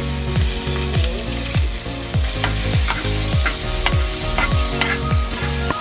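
Sliced vegetables sizzling in hot oil in a frying pan as they are stirred and tossed with metal tongs, with a few clicks of metal on the pan. Background music with a steady beat plays throughout.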